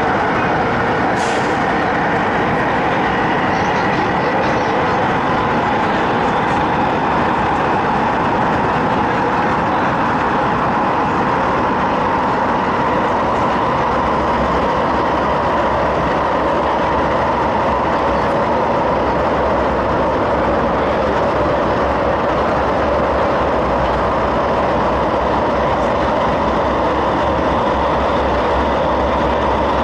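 Interior running noise of an MTR East Rail Line MLR electric train (Metro-Cammell stock) in motion: a loud, steady rumble and hiss of wheels on the rails and running gear, with a faint steady whine over it. The low rumble grows stronger about halfway through.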